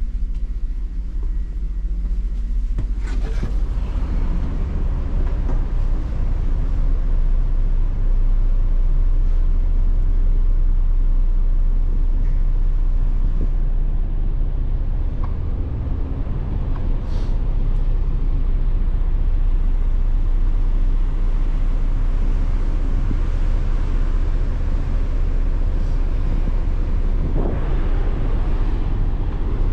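Steady low rumble of a ferry under way: the ship's engines droning with a constant rushing noise over it.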